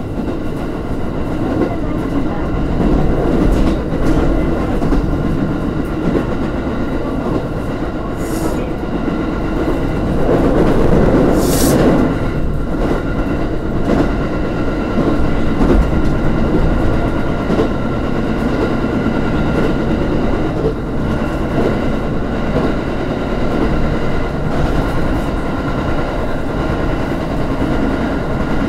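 Electric train running along the line, heard from inside the rear cab: a steady hum from the running gear and wheels clicking over rail joints. A brief hiss comes about eleven seconds in.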